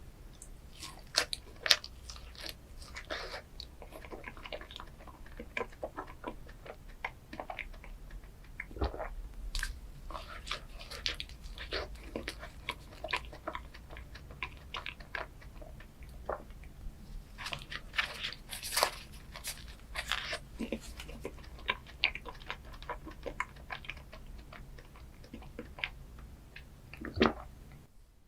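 Close-miked biting and chewing of a chocolate ice cream dessert, with many crisp crackles and snaps of the chocolate coating throughout, and louder bites just after the start and near the end.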